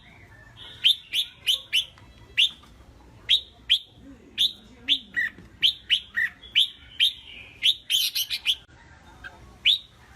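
Red-whiskered bulbul singing: a run of short, sharp, downslurred notes in quick irregular succession, with a dense flurry of notes shortly before the end.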